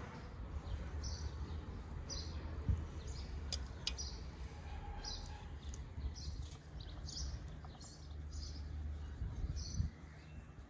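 A small songbird chirping over and over, short high chirps about once a second, over a steady low rumble. A couple of sharp knocks stand out, one about three seconds in and one near the end.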